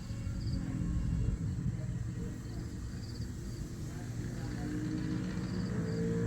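Outdoor dawn ambience: a steady low rumble, with short high bird chirps now and then.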